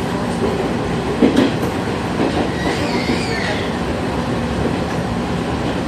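Electric train running along the rails, heard from inside the front car: a steady rumble of wheels on track, with a single knock a little over a second in.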